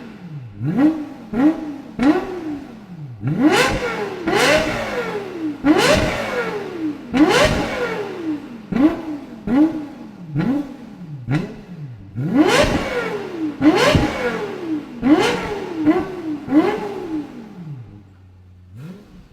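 Lexus LFA's V10 engine being revved repeatedly in quick blips, its pitch rising sharply and falling back each time, some revs climbing much higher than others. It drops to a low steady hum near the end.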